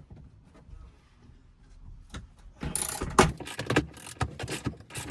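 Hand ratchet wrench clicking as a bolt is worked, in quick clicks about four or five a second that start about halfway in, after a quiet start.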